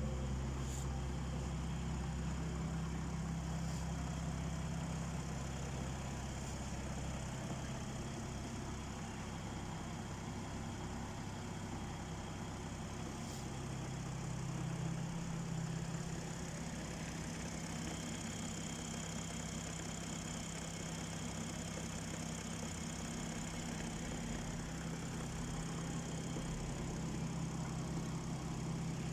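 A90 Toyota Supra's engine idling steadily through its exhaust.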